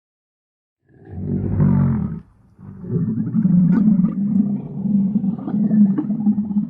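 Dromedary camel calling. After a short silence a first low call comes about a second in, then a longer, throbbing low call follows and carries on to the end.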